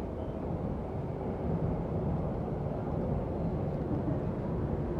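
Yamanote Line electric train running out of a station, a steady low rumble of wheels and running gear heard from inside the carriage, growing slightly louder as it gathers speed.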